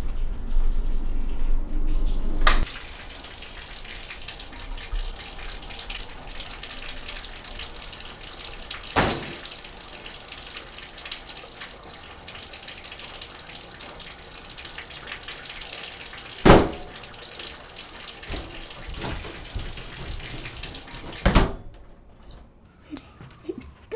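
Water running steadily from a tap, after a couple of seconds of heavy low rumble. Three sharp knocks cut through it, the loudest near the end, and then the sound cuts off suddenly.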